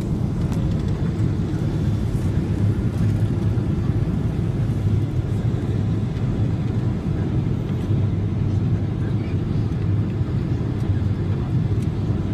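Steady low rumble of an airliner heard from inside the passenger cabin, even and unbroken.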